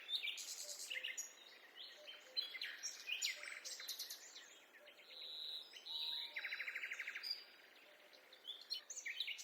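Several songbirds singing and calling at once, short chirps and whistles overlapping, with a fast, even trill of repeated notes about two-thirds of the way through.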